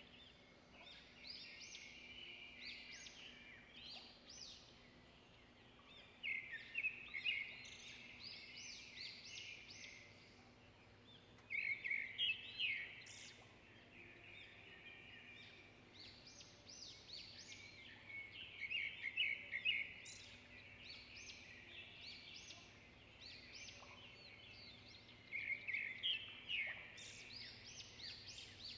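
A bird singing in the background: short phrases of quick, high chirps, repeated several times with pauses between them, over a faint steady hum.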